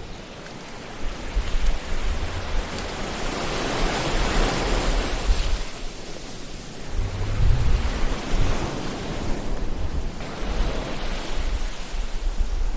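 Ocean surf: waves breaking and washing in as a steady rush that swells about four seconds in and again around eight seconds.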